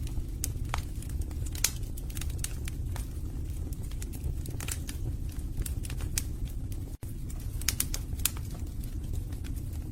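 Wood fire burning in a fireplace: a steady low rumble of flames with irregular crackles and pops from the logs. The sound cuts out for an instant about seven seconds in.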